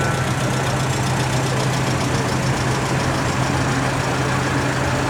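Vintage fire engine's engine idling steadily with a constant low hum.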